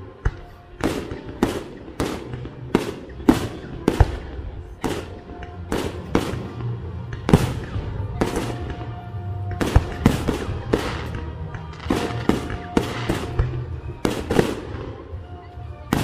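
Fireworks show: aerial shells bursting one after another, about two sharp bangs a second, each with a short fading tail.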